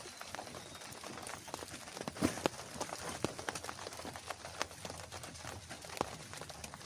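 Rain falling, with large drops tapping unevenly over a steady hiss; a few louder taps come about two seconds in.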